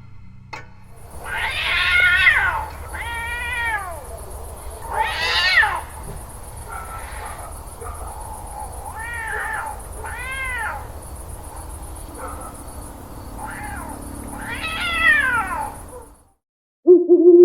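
A cat meowing and yowling: about eight drawn-out calls that rise and fall in pitch, over a steady low rumble and hiss. It all cuts off suddenly near the end, and a steady low tone begins.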